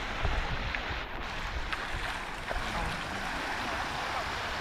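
Steady wash of surf and wind on the microphone at the beach, with faint distant voices mixed in.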